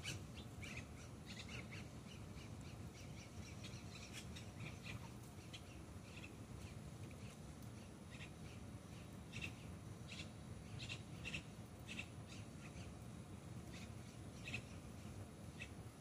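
Birds calling: many short, sharp, high calls scattered throughout, several a second at times, over a low steady rumble.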